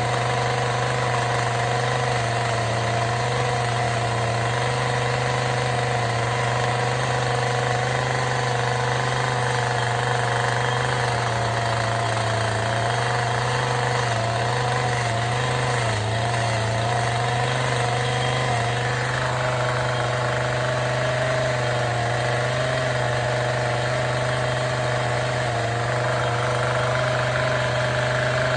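Chainsaw running steadily while cutting shallow feather lines into a wood carving; its pitch drops slightly about two-thirds of the way through.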